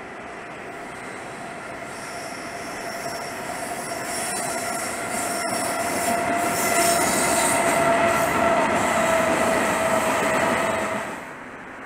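Freight train of tank cars hauled by an electric locomotive passing close by, its wheels rumbling on the rails with a steady high-pitched squeal. It grows louder as the train draws level and cuts off suddenly near the end.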